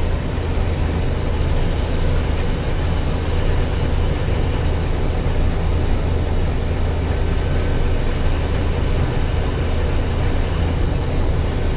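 Combine harvester running at full throttle with its separator and header engaged while cutting soybeans: a steady, unchanging machine drone with a strong low hum.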